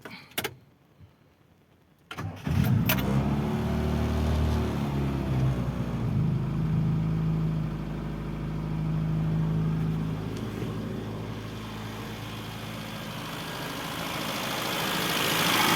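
Rover Mini's A-series four-cylinder engine started from cold on the choke: a click or two, a brief crank, and it catches about two seconds in. It then runs at a fast, steady choke idle that eases off somewhat, getting louder again near the end.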